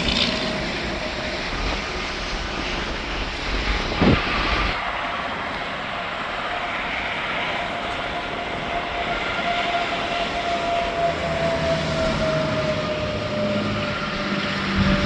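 Interstate traffic passing: a steady rush of tyres and engines, with a thump about four seconds in and a drawn-out whine that slowly falls in pitch through the second half.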